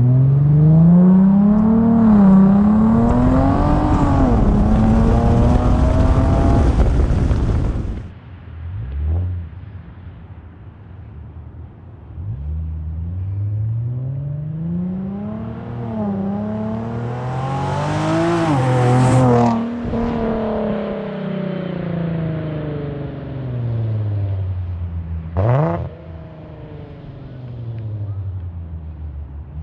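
Car engine and exhaust pulling hard through the gears, the pitch climbing and dropping back at each shift, then falling away suddenly when the throttle closes about eight seconds in. A second run through the gears follows, then the revs wind down, with one quick throttle blip near the end.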